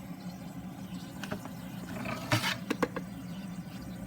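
Sears Coldspot mini-fridge compressor running with a steady low hum: the old unit works and is cooling. A few light clicks and knocks come over it about a second in and again two to three seconds in.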